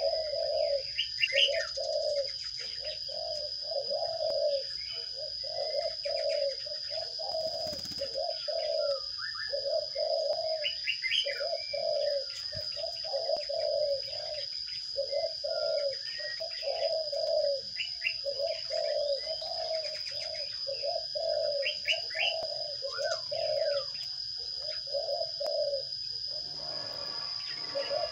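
Birds calling: a rhythmic, low cooing note repeats about three times every two seconds, like a dove, with short high sparrow chirps over it. A steady high-pitched whine runs underneath.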